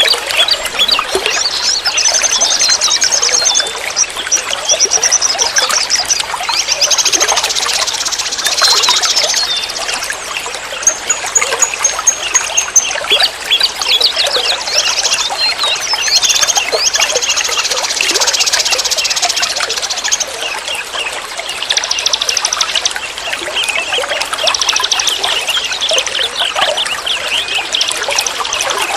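Flowing forest stream water running and trickling, with small birds chattering over it in bouts of fast, high trills and chirps, one after another.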